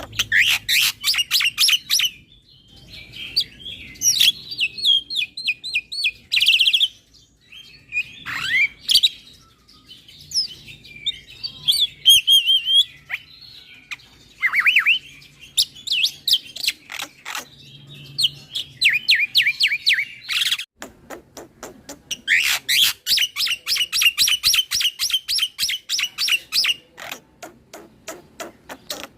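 Black-winged myna (jalak putih) singing loudly: long trains of fast, rapidly repeated high notes, broken up by varied whistles and chattering phrases.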